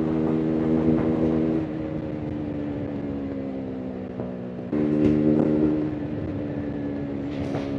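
KTM RC 390's single-cylinder engine and exhaust running at steady revs. Less than two seconds in, the throttle eases and the note drops slightly and quietens; about five seconds in it opens up again, louder, before easing off a second later.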